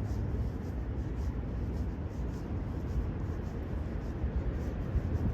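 Steady low rumble of distant city traffic, with faint, regular footsteps of someone walking, about two steps a second.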